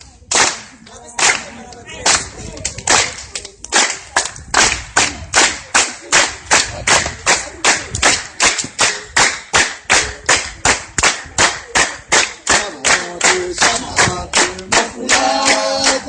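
Hand clapping in rhythm, slow and uneven at first, then settling about four seconds in into a steady beat of about three claps a second. Singing joins in near the end.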